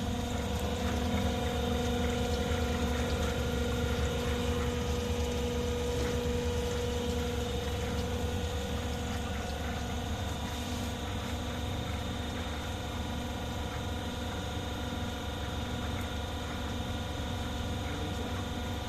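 INDO TECH CNC bundle cutting machine running: a steady mechanical hum with several constant tones.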